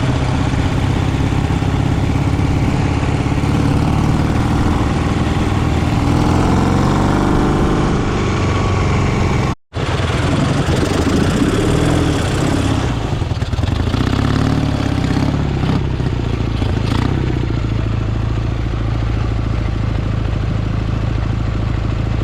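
Engine running steadily, revving up about six seconds in, with a short break just before ten seconds and then steady running again.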